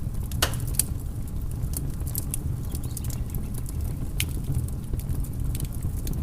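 Wood fire crackling in a fireplace: a steady low rumble of burning with scattered sharp pops and snaps, the loudest pop about half a second in.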